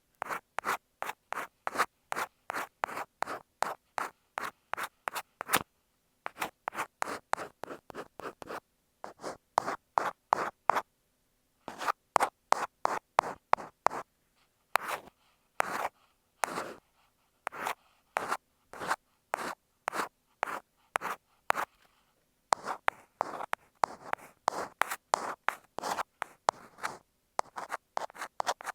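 Ear pick scratching on an earphone microphone, simulating ear cleaning: quick short strokes, about three a second, in runs broken by brief pauses.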